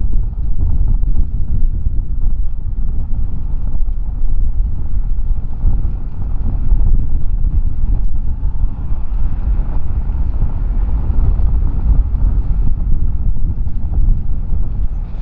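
Wind buffeting the microphone over a low, steady rumble.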